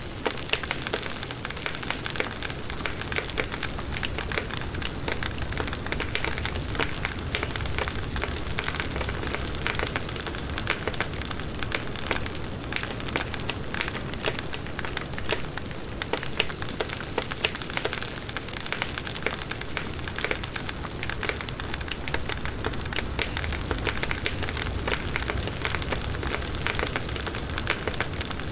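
Firewood burning in a campfire: a steady hiss of flames with frequent small pops and crackles.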